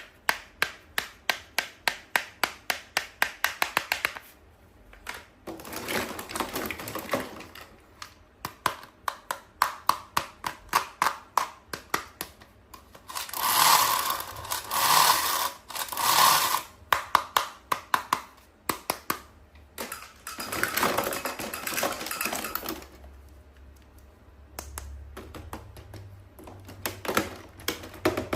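Close-up handling of toys and their packaging: runs of rapid sharp clicks, about five a second, alternating with several bursts of rustling, the loudest in the middle.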